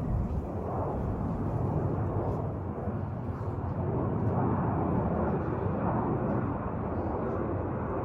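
Jet airliner's engines heard as a steady low rush of noise as the aircraft flies by on approach to land.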